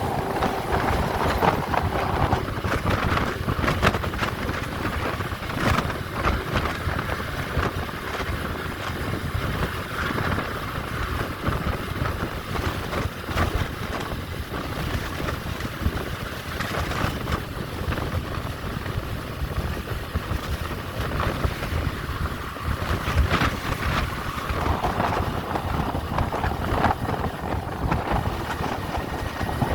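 Strong wind buffeting the microphone over a steady low vehicle rumble, with scattered knocks and clicks.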